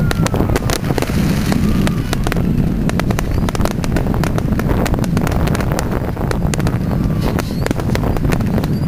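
Fireworks display: rapid, scattered crackling pops over a constant low rumble, with wind on the microphone.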